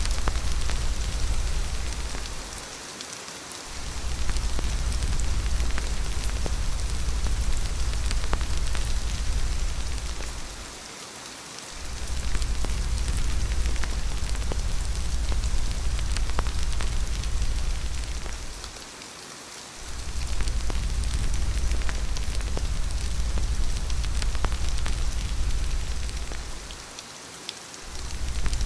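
Steady rain with a deep rumble of wind beneath it. The rumble fades out for about a second roughly every eight seconds, and faint crackles are scattered through.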